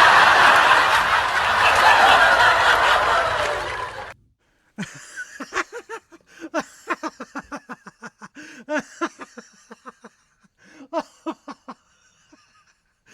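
A loud, even hiss-like noise that cuts off abruptly about four seconds in. After a short gap comes a laugh-like voice in quick pitched pulses, several a second, in two runs with a pause between them.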